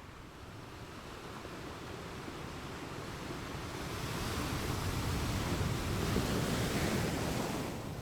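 Ocean waves washing in on a shore. One wave swells over several seconds and falls away near the end.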